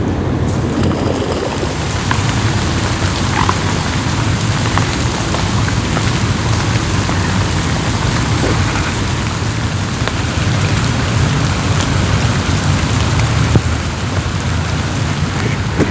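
Steady rain falling on a lake's surface, a dense patter of drops with a low rumble beneath.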